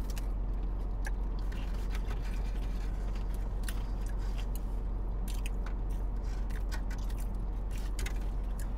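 Close-up chewing and mouth sounds of people eating, with many small scattered clicks and scrapes from handling food, over a steady low hum in a car's cabin.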